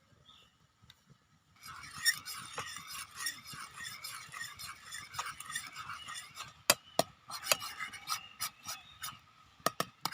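A kitchen utensil stirring and scraping against a pan or bowl, starting a couple of seconds in, then several separate sharp clinks near the end.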